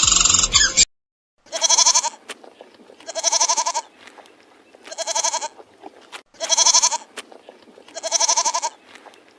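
A loud sound from the previous clip cuts off abruptly within the first second. Then a goat bleats five times, each call wavering and lasting under a second, about a second and a half apart.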